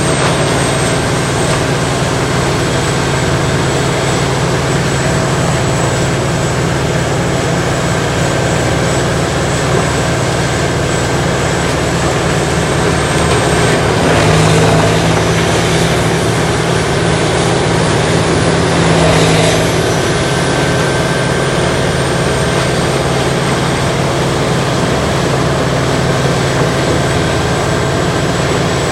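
Morbark tracked horizontal grinder running steadily at speed, grinding brush and stumps. Its pitch and loudness rise for about five seconds midway through, then settle back.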